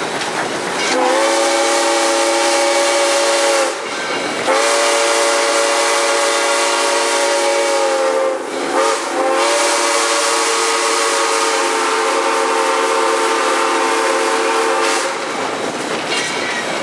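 Steam whistle of Southern Railway #630, an Alco 2-8-0 Consolidation, blown from the cab in four blasts: long, long, short, long. This is the standard grade-crossing signal. The train runs along the track under it.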